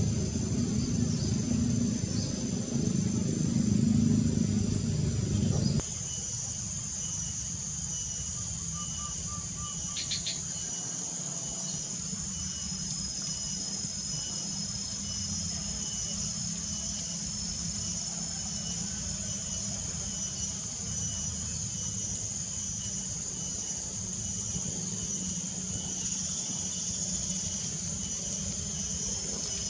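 Steady high-pitched chorus of insects, with a short chirp about ten seconds in. For the first six seconds a louder low rumble runs under it and then stops abruptly.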